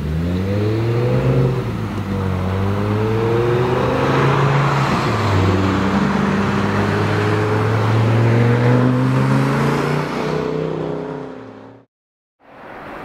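Audi R8 GT's 5.2-litre V10 accelerating hard out of a corner, revs climbing through two quick upshifts, then running loud and steady before fading away into the distance. The sound cuts out completely for a moment near the end.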